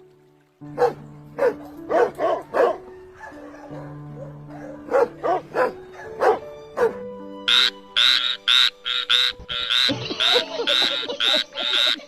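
Short animal calls over background music with held notes: scattered single calls in the first half, then a fast, regular series of about three calls a second from about halfway through.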